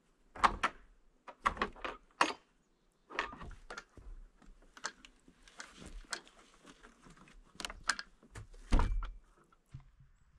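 A series of irregular knocks and thumps, about a dozen, some sharp and loud, with short gaps between them.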